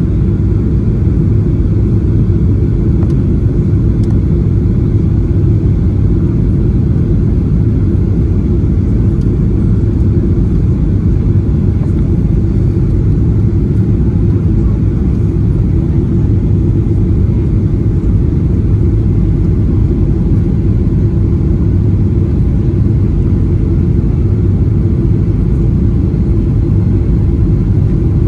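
Airliner cabin noise heard from inside the cabin: a steady, loud low rumble of engines and airflow with no distinct events.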